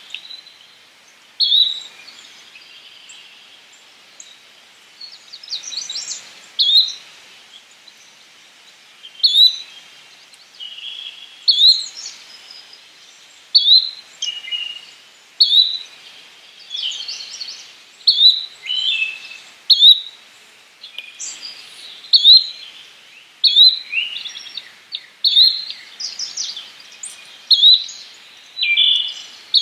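Yellow-bellied flycatcher calling: short, sharp, high notes repeated every couple of seconds, with softer chirps in between.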